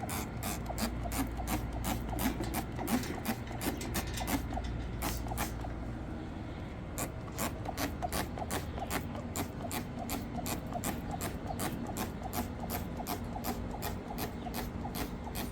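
A stiff brush scrubbing a hard surface in quick, even back-and-forth strokes, several a second, without a break.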